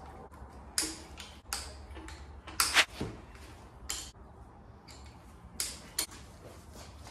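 Irregular sharp metallic clicks and clinks of hand tools, about nine in all with the loudest a little under three seconds in, as a half-inch socket works on the rocker shaft bolts of a Holden grey motor.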